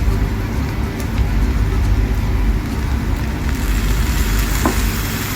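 Noodles stir-frying in a pan over a kitchen stove: a steady low roar from the cooking setup, with a hiss that grows in the second half and a few light taps, as of a utensil against the pan.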